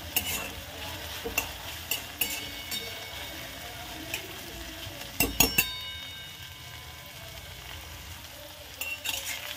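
Chopped raw green tomatoes, green chillies and peanuts sizzling in oil in an iron kadhai, with a metal spatula scraping and clicking against the pan as they are stirred. About five seconds in there is a cluster of louder clanks with a brief metallic ring, and the stirring is then quieter for a few seconds.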